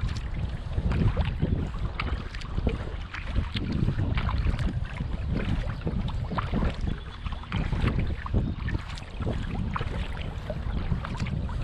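Kayak paddle strokes: water splashing and dripping off the paddle blades in short irregular spatters, over a low wind rumble on the microphone.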